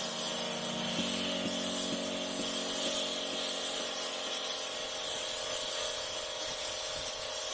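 Foam sprayer steadily spraying car shampoo foam onto the engine bay, a continuous hiss with a steady low hum underneath.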